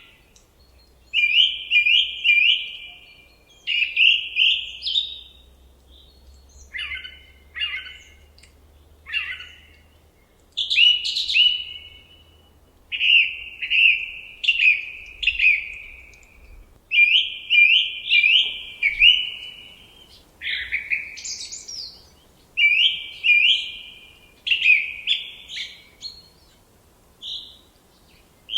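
Birdsong: short phrases of three or four quick chirping notes, repeated about every one to two seconds.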